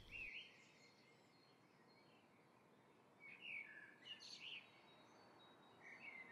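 Faint bird chirps over near silence: a few short calls about three to four and a half seconds in, and again near the end.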